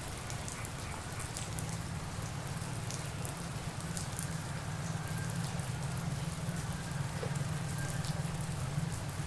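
Steady tropical rain falling, with scattered close drops ticking through it over a deep, steady rumble.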